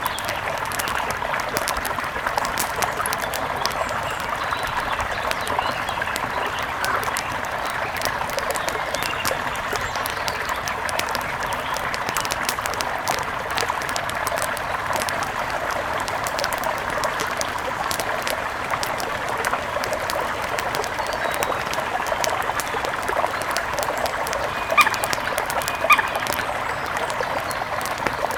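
Steady rush of flowing river water under the scattered small crackles and pops of a wood fire, with two louder sharp pops near the end.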